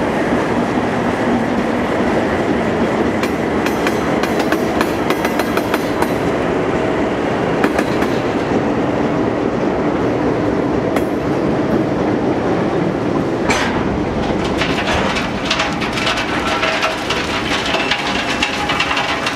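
Ballast train's hopper cars on the track: a steady heavy rumble with rattling and clanking of the cars, the clatter growing sharper and busier from about fourteen seconds in.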